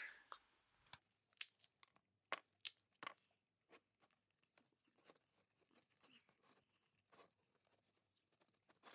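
Faint, scattered clicks and soft rustles of things being handled, coming irregularly and thinning out after the first few seconds.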